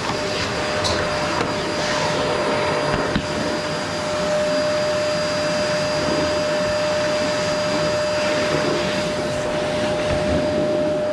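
Qilive vacuum cleaner running steadily, a continuous rush of air with a steady whining tone over it.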